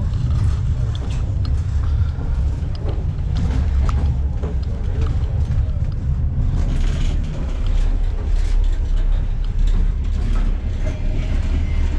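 Steady low rumble of a moving passenger train heard from inside the carriage, with scattered clicks and knocks. Near the end a metal door handle is worked.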